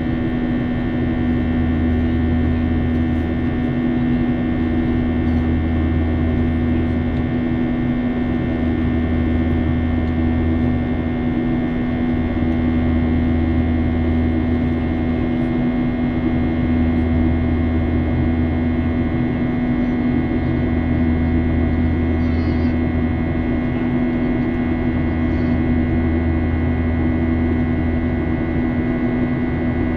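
Jet airliner cabin noise in the climb after takeoff: a steady drone of engines and airflow with a strong low hum, and a deep throb that swells and fades about every four seconds.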